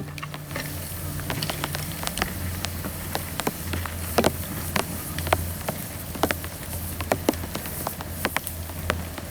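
Dry bamboo burning in a pail-can fire, crackling with irregular sharp pops over a steady low hum.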